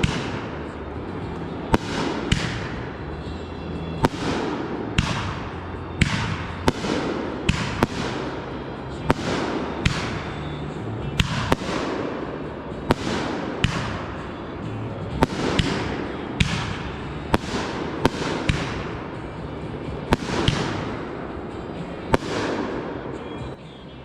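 Consumer fireworks going off in quick succession, a little over one sharp report a second, each bang followed by a fading tail. The bursts stop shortly before the end.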